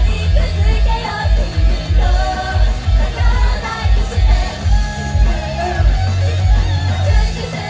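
Live band music with singing over electric guitar, bass and drums, played loud through a club's PA.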